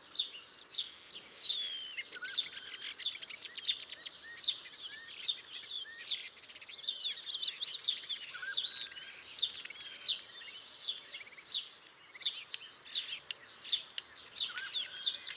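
Starlings singing: a dense, rapid run of clicks, chirps and short whistles, opening with one long whistle that falls steadily in pitch.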